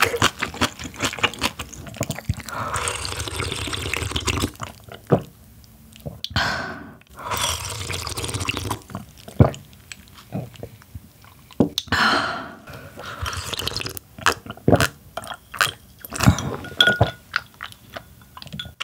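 Close-miked wet chewing and mouth clicks from eating spicy kimchi and water-soaked rice, broken by several long breathy puffs of air through pursed lips.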